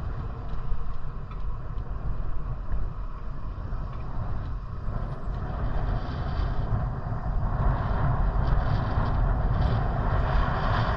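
Steady rumble of wind and road noise while riding a bike, without any clear tone. It grows louder and hissier in the second half.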